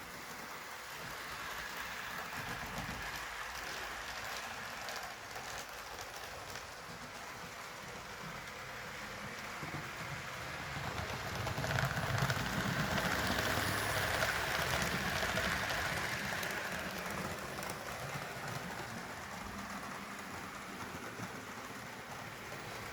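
HO scale model train, a Walthers Trainline GP15-1 locomotive pulling a few freight cars, running on the track: a steady whirring rattle of the motor and wheels over the rail joints. It grows louder for several seconds in the middle as the train comes close, then fades again.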